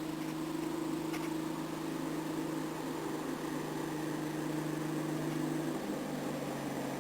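A vehicle engine running steadily at a constant note, stepping down to a slightly lower pitch about six seconds in.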